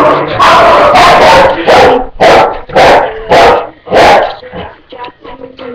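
A dog barking loudly and repeatedly, about seven barks in the first four seconds, then stopping.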